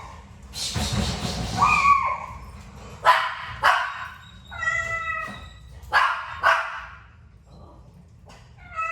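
A young pet calling again and again: short high whining calls and sharp yips, with a breathy, hiss-like burst about a second in.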